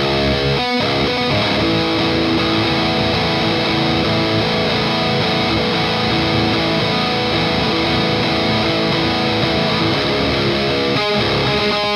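Electric guitar played through an overdrive pedal into an EVH Iconic amp and 2x12 cabinet: distorted riffing with held chords and notes, picked again about a second in and near the end.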